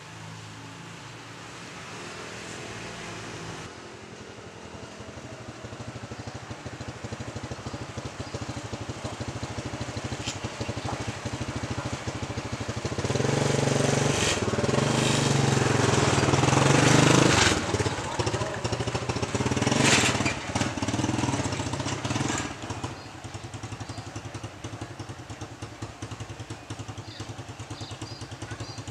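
Vehicles passing close by with a steady engine hum, building to loudest about halfway through, peaking sharply once, then easing off.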